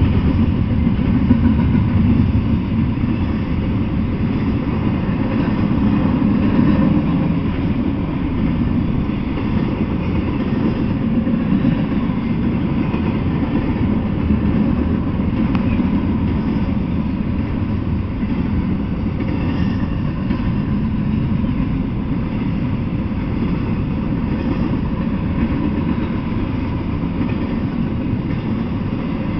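Double-stack intermodal freight train rolling past: steady, loud noise of the container cars' steel wheels on the rails, with no locomotive in the picture.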